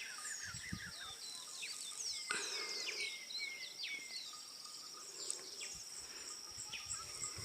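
Insect and bird chorus: a steady high insect drone with an evenly pulsing trill above it, and many short bird chirps scattered throughout. A single sharp click about two seconds in.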